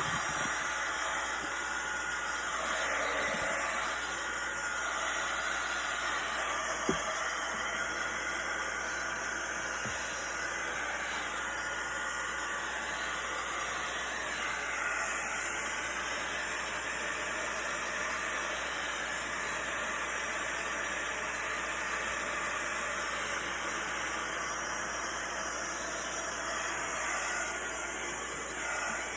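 Hot-air blower running with a steady hiss.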